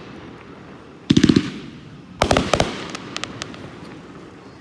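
Consumer firework cake firing: two quick clusters of sharp bangs about a second apart, each trailing off in echo, followed by a few fainter pops.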